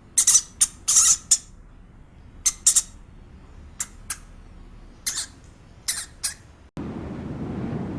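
A dozen or so short, high-pitched animal squeaks in quick clusters, then a sudden cut to a steady windy rumble about three-quarters of the way in.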